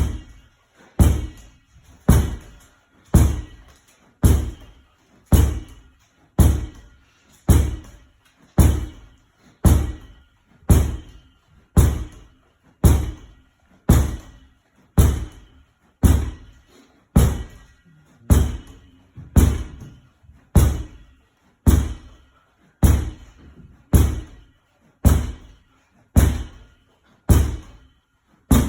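A ball repeatedly thrown against a wall and caught, giving a steady series of sharp thuds about once a second. Each hit comes as a quick double knock.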